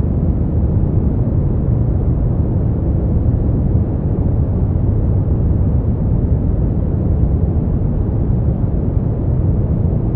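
Steady artificial noise: a deep, even rumble with its weight low down and no high hiss, unchanging.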